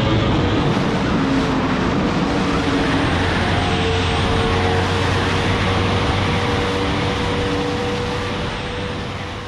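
2023 Yamaha R1's crossplane inline-four engine running at a steady cruise under wind noise, fading out near the end.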